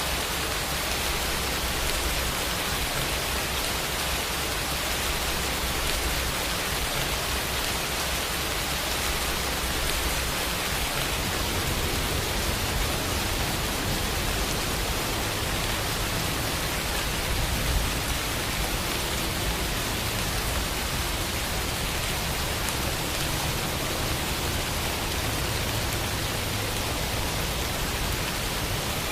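Steady, dense rainfall: a continuous hiss of rain with no other sounds. A single brief louder patter comes about two thirds of the way through.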